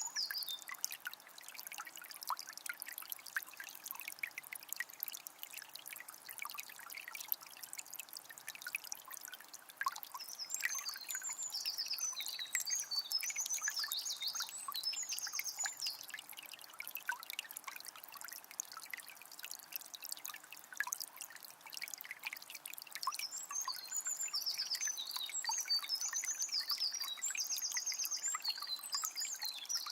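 Water of a small spring trickling and splashing steadily, with a songbird singing in bursts about a third of the way in and again near the end.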